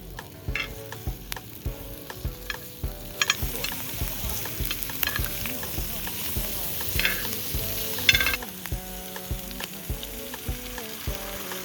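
Food sizzling in a frying pan while a utensil stirs it and knocks against the pan. The sizzle swells about three seconds in and drops back after about eight seconds.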